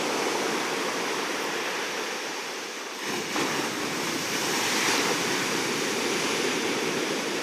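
Ocean surf washing onto a beach: a steady rush of breaking waves that eases slightly, then swells again as a fresh wave breaks about three seconds in.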